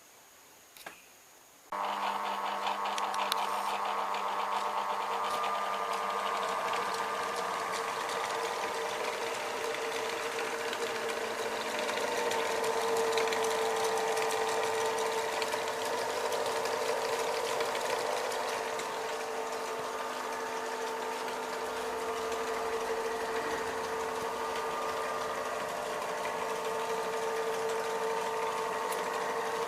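Restored 3 kW generator running steadily with a busy mechanical hum. It starts abruptly about two seconds in and keeps an even speed, slightly louder for a few seconds in the middle.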